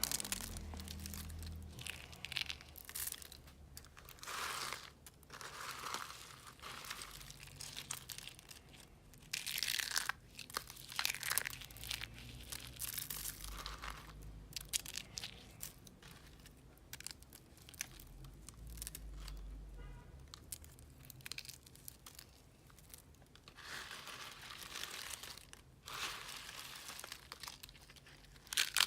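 Crisp, dry crunching and crumbling of a block of blue recycled soap, in irregular bursts every second or two with short pauses between.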